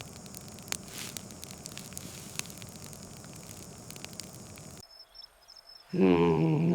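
Steady hiss with scattered crackles and pops. About five seconds in it cuts to near silence, and near the end a loud, low, held humming sound with several pitches begins.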